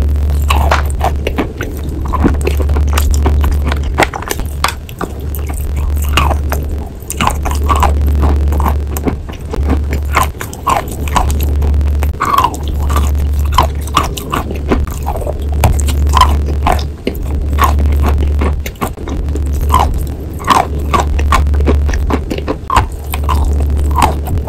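Biting and chewing of a chalk block: many short crunchy clicks and scrapes close to the mouth. Background music with a low pulsing bass runs underneath.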